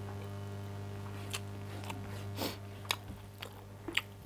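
Close-up mouth sounds of a person eating a meal of rice, meat, dal and salad: a run of crisp bites and crunches, about one every half second, starting a little over a second in. A steady low hum sits underneath.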